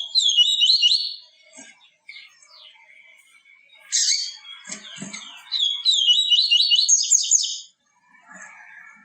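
Papa-capim (yellow-bellied seedeater) singing: quick, high, twittering phrases. A short phrase opens, a brief burst comes near the middle, and a longer phrase runs through the second half, with softer notes in between.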